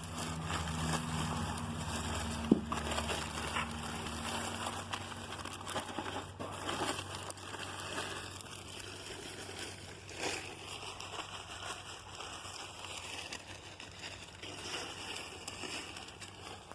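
Wet mortar of refractory earth, cement and water being mixed: irregular scraping and sloshing, with a sharp knock about two and a half seconds in.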